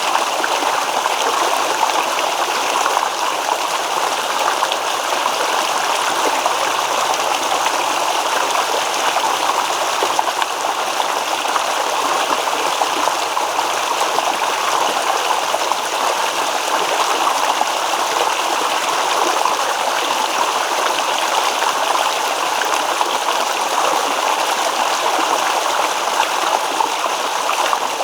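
Babbling stream: water running and rippling over stones in a steady, even rush.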